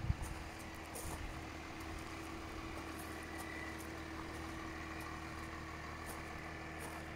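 Mercedes S320 CDI's 3.0-litre V6 diesel idling steadily, with a thump right at the start and footsteps crunching on gravel as someone walks round the car.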